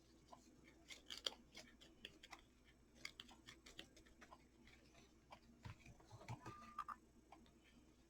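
Faint scattered small clicks and rustles of hands handling and wrapping thin ribbon, close to near silence.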